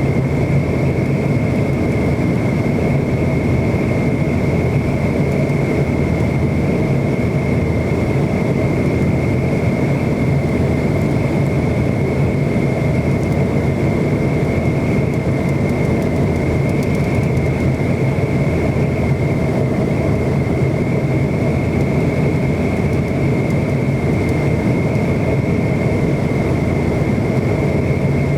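McDonnell Douglas MD-90 airliner's rear-mounted V2500-family turbofans running steadily at high power, heard as a constant loud rush with a steady high-pitched whine over a deep hum.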